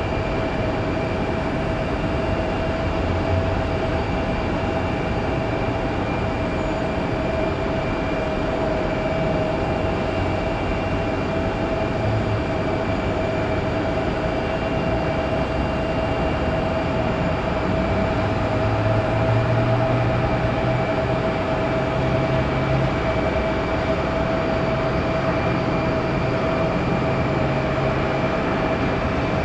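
Jet airliner engines running: a steady rumble with a steady whine over it, holding level throughout.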